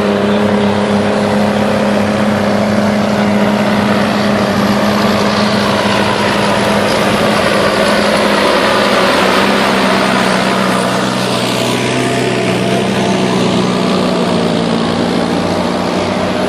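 John Deere 2020 tractor engine running steadily with an even, loud hum; its higher-pitched part dips and rises again about two-thirds of the way through.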